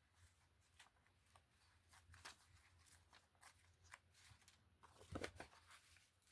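Faint rustling and small crackles of brittle old book paper being handled and torn, with a louder crinkling about five seconds in.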